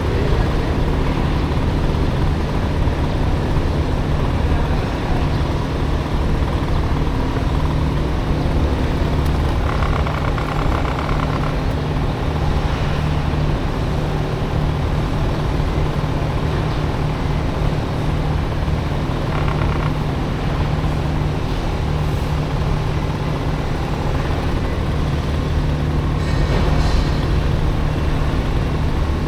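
Small Honda Dio scooter engine running steadily on the move, mixed with road noise and surrounding city traffic, with a few brief higher-pitched sounds along the way.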